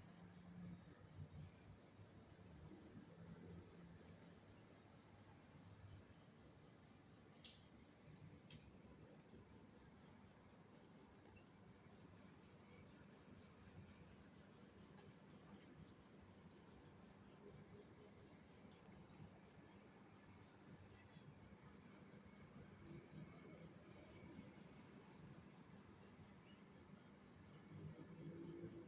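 A cricket trilling: one steady, high-pitched, unbroken trill.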